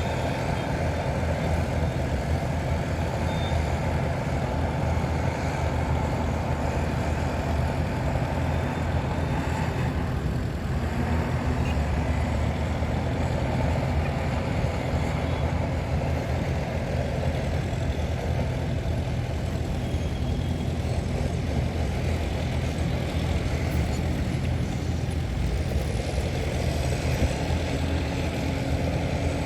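Heavy diesel engines of earthmoving machinery running steadily with a deep, even rumble.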